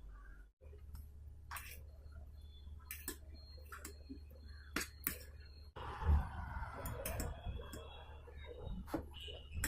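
Faint, scattered clicks and clinks of utensils and dishes being handled, with a short scraping rustle about six seconds in.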